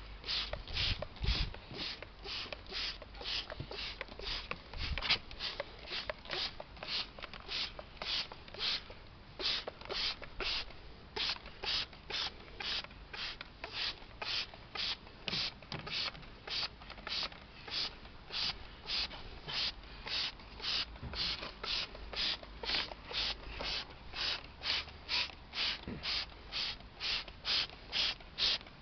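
Hand trigger sprayer squirting engine-cleaning liquid onto a greasy engine, one short hiss per squeeze, nearly two a second in an even rhythm.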